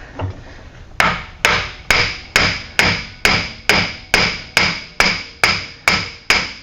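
Hammer blows on a CV axle clamped in a vise, a steady run of sharp metallic strikes about two a second with a bright ringing tone, starting about a second in. The blows are driving the rusted CV axle off the intermediate shaft's splines.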